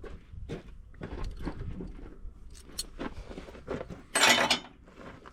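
Hand tools clinking and knocking as they are handled, with one short, loud scraping rush about four seconds in.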